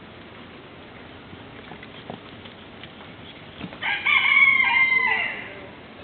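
A rooster crowing once, about four seconds in: a single cock-a-doodle-doo of about a second and a half, its pitch stepping and then falling away at the end.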